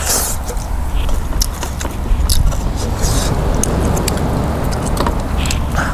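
Close-up chewing and lip-smacking of a man eating crisp pan-grilled mackerel, with scattered short clicks and brief hissy smacks, over a steady low rumble of wind on the microphone.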